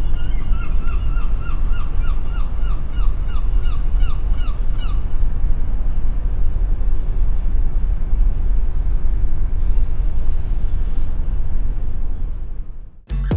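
Wind rumbling on the microphone, loud and steady, with a quick run of short repeated squawking calls, about three a second, over the first five seconds. The sound cuts off abruptly near the end.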